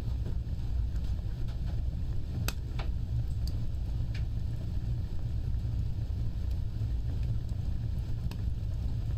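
Wood fire burning with a steady low roar and a few sharp crackles and pops, the loudest a pair about two and a half seconds in.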